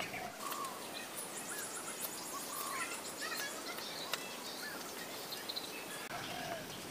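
Birds chirping with many short calls over steady background noise, with a fast high trill about a second in and a few sharp clicks.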